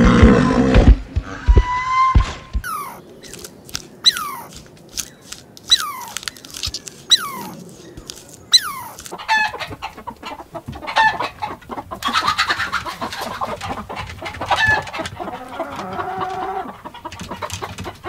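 Chickens clucking and calling, first a series of short calls that fall in pitch, then denser, longer calls from the flock. It opens with a loud low-pitched sound lasting about a second.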